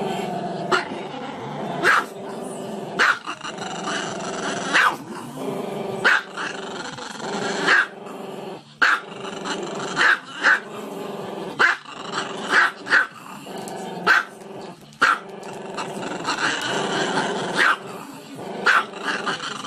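Small dog barking sharply and repeatedly, about once a second at an uneven pace, with a continuous low, pitched growl between the barks.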